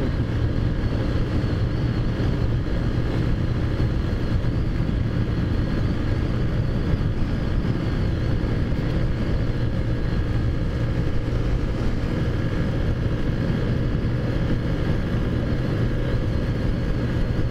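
Taotao Zummer scooter's modified 50cc four-stroke engine (big bore kit, performance cam, 20 mm carburettor) running steadily at cruising speed, under a constant rushing road and wind noise.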